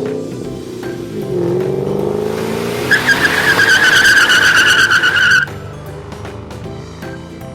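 A car engine revving, its pitch gliding up, then tires squealing for about two and a half seconds before the squeal cuts off suddenly. Light background music with repeating notes plays for the rest.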